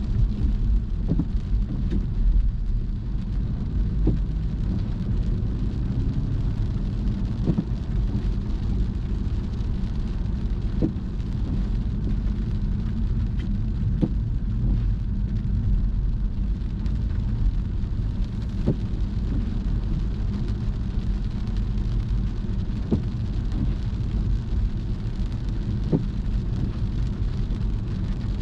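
Car driving on wet roads in the rain, heard from inside the cabin: a steady low road-and-engine rumble with rain noise, and a faint click every few seconds.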